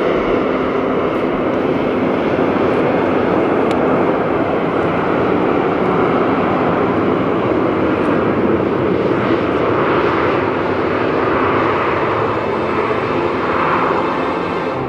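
Jet airliner engines running with a steady, continuous noise.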